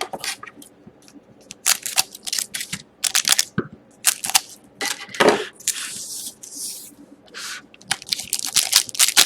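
Foil trading card pack wrappers being handled, crinkling and crackling in short irregular bursts, with a louder rustle about five seconds in.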